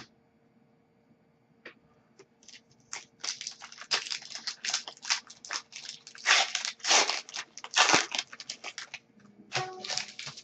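Foil wrapper of an Upper Deck hockey card pack being torn open and crinkled in the hands, a dense run of rapid crackles that starts about three seconds in and is loudest past the middle.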